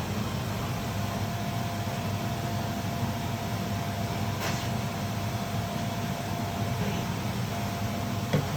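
A steady low mechanical hum with a faint high whine running through it, and two light clicks, one midway and one near the end.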